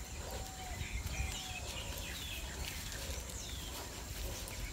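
Birds chirping and calling in short, quick notes, many of them falling in pitch, over a steady low background rumble.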